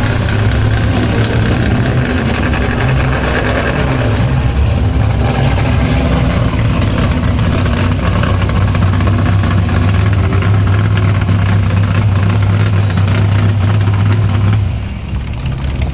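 Car engine running at a steady idle, a low drone that drops away near the end.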